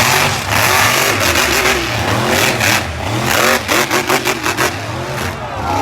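Monster truck engine revving hard in repeated rising and falling surges, with a rapid run of short pulses in the middle.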